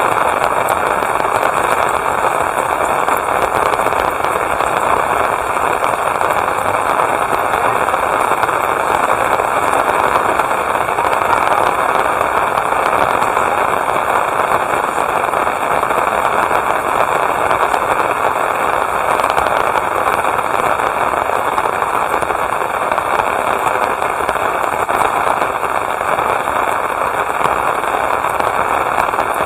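Steady rain, a dense, even hiss of falling drops with fine crackling drop impacts throughout.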